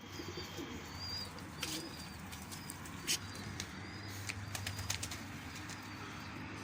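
Domestic pigeons' wings flapping, heard as a few short sharp claps, with faint high bird chirps over a low steady hum.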